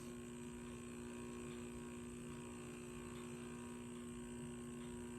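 Steady electrical mains hum, two unchanging low tones over a faint hiss, with no other sound.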